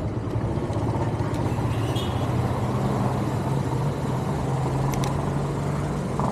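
A motor running at a steady pitch, its hum cutting off shortly before the end, with a few sharp clicks along the way.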